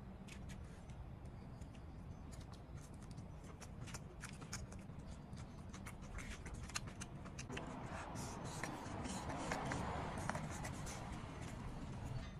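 Close-up chewing of barbecued fatty pork: a dense run of small wet clicks and crackles, growing louder and fuller in the second half.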